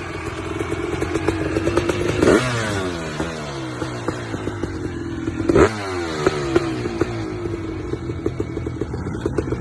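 Motocross bike engine revving, its pitch rising and falling over and over, with two loud sharp knocks, about two seconds in and again about five and a half seconds in.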